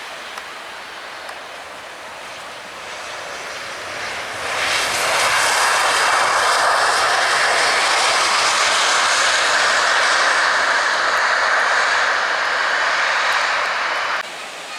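Airliner engines passing close by: a rushing noise that builds, turns loud about four seconds in and holds steady with a faint whine, then cuts off suddenly near the end.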